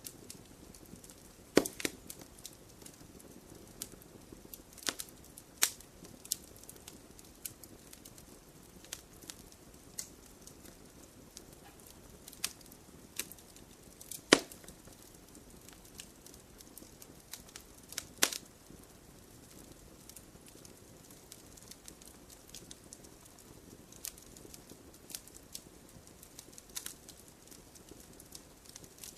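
Campfire crackling: irregular sharp pops and snaps over a faint steady hiss, with a handful of much louder snaps scattered through.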